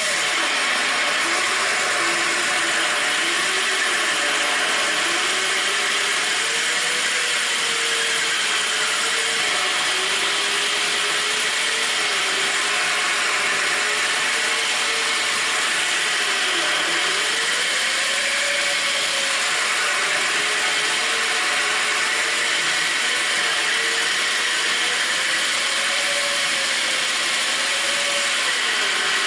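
Corded drill running continuously with a diamond-coated bit grinding into porcelain tile: a steady gritty hiss over a motor hum whose pitch wanders up and down.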